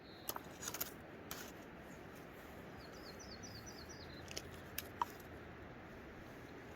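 A small bird sings a quick run of about seven short chirps about three seconds in, over the steady rush of river water. A few sharp clicks come in the first second and again near the five-second mark.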